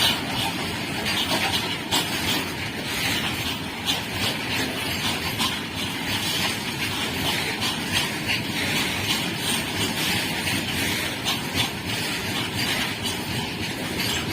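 Train wheels running on the track, a steady rumble and hiss with a rapid run of clicks and clatter throughout.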